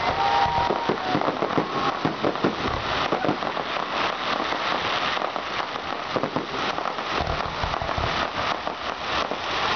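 Fireworks crackling densely and without pause, a thick stream of small pops and snaps with heavier bangs scattered through, and a thin whistle fading in the first second.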